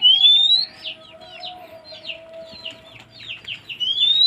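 Small birds calling: a rising whistle at the start and again near the end, over a steady run of short, quick chirps.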